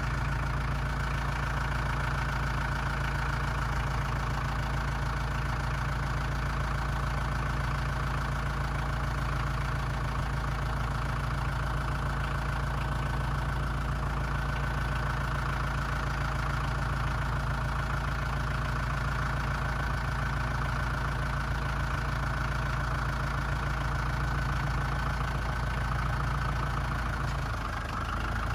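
A tractor engine idling, running steadily without change until a brief dip near the end.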